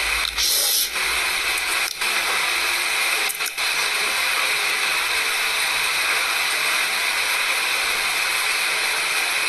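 Steady loud hissing noise, with a few brief clicks during the first three or four seconds.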